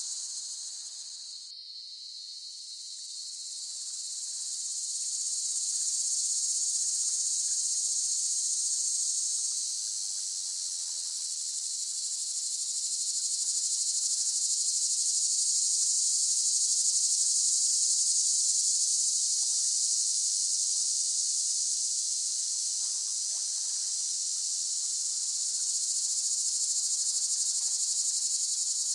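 Cicadas singing in a continuous high-pitched buzz that dips briefly about two seconds in, then swells and eases in slow waves.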